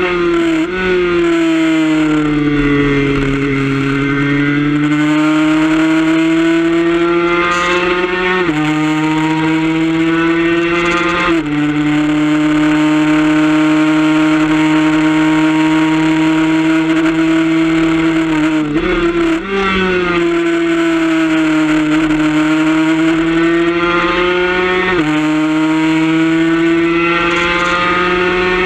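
Suzuki RG150 two-stroke single-cylinder engine running hard at high revs, heard onboard over wind rush. Its pitch sags and climbs back through corners and breaks sharply several times at gear changes.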